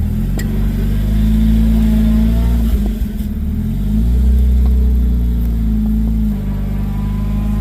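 Off-road 4x4's engine running under load while driving. The pitch rises, drops briefly about three seconds in, then climbs again.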